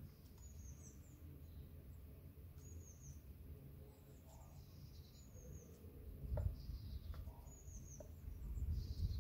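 A bird calling in the background, a short high chirp repeated about every two and a half seconds. Under it is a low rumble that swells after about six seconds and again near the end, with a few light taps of a knife on a wooden cutting board as duck breast skin is scored.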